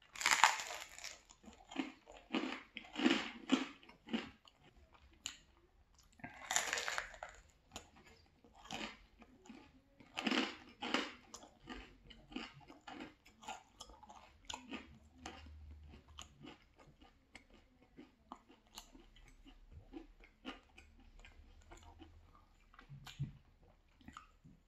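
Close-miked biting and chewing of a slice of spicy pepperoni pizza with a crunchy crust. A few loud crackling bites come in the first seconds and again about seven and ten seconds in, then softer chewing with small clicks.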